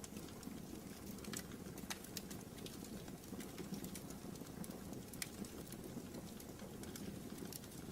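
Wood fire burning in a fireplace: a steady low rumble of flames with scattered sharp crackles and pops every second or so.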